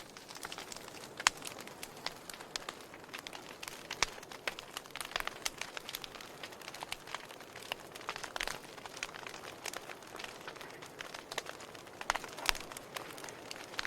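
Wood fire burning in a fireplace, crackling and popping irregularly over a soft steady hiss, with a few louder pops, one about four seconds in and one near the end.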